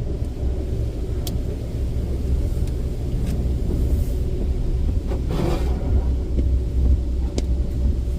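Low, steady rumble of a car's engine and tyres heard inside the cabin as the car creeps forward, with a few faint clicks and a brief rustle about five seconds in.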